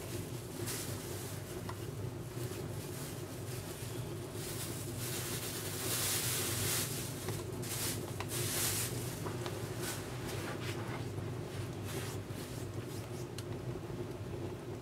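Wood fire burning in a Contura wood stove, crackling and popping with hissing flares, louder about six and again about eight and a half seconds in, over a steady low hum.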